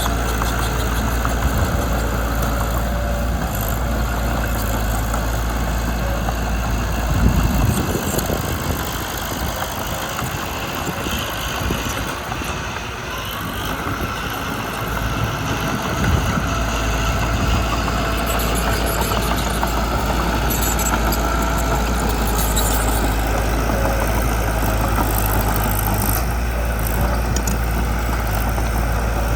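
Mitsubishi BD2 bulldozer's diesel engine running steadily, with a deep drone that fades for several seconds in the middle, just after a brief louder jolt, then comes back steady.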